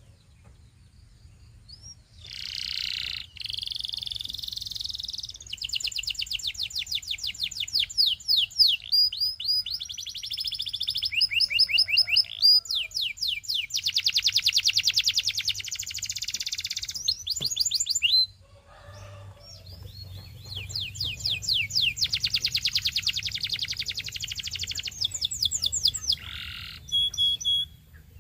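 Domestic canary singing: long rolling trills of fast repeated notes, some rising and falling in pitch. The song starts about two seconds in and pauses briefly about two-thirds of the way through.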